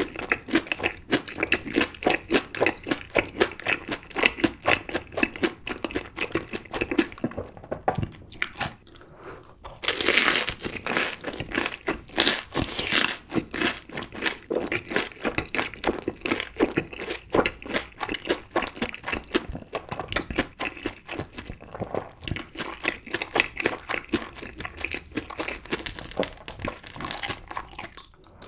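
Close-up chewing of a breaded mozzarella corn dog coated in cheddar cheese sauce: a fast, continuous run of crunches from the fried crust. After a short lull about a third of the way in come a few louder crunches.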